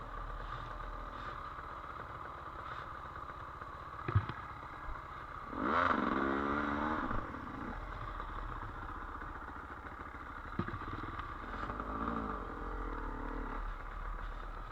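Trail dirt bike engine running at low revs, revving up for about a second and a half some five and a half seconds in, with a smaller rev near the end. A couple of sharp knocks come around four and ten and a half seconds in.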